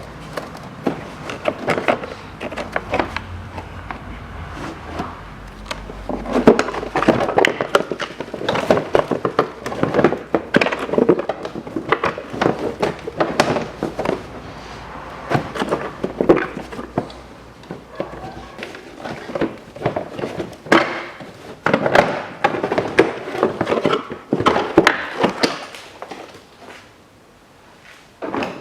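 Plastic wheel-arch liner being pulled out and handled, with irregular knocks, clicks and scraping of stiff plastic.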